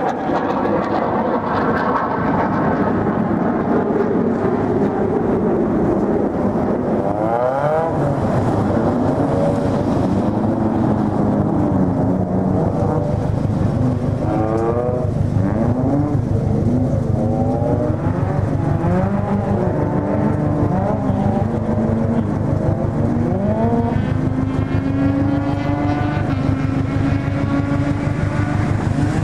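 A drift car's engine revving hard and falling back over and over, its pitch climbing and dropping every second or two as the throttle is worked through the slides. From about eight seconds in there is a steady low drone underneath.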